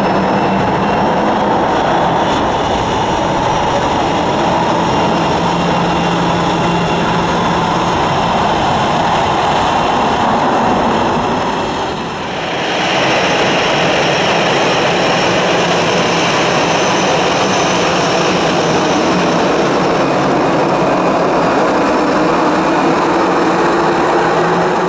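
Airbus A320 jet engines running at taxi power close by: a steady rushing noise with a high whine, dipping briefly about halfway through as a second A320 takes over.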